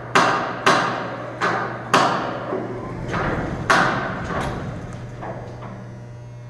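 Loud metal bangs during an engine pull: five sharp strikes in the first four seconds, each ringing briefly, then a few fainter knocks, over a steady low hum.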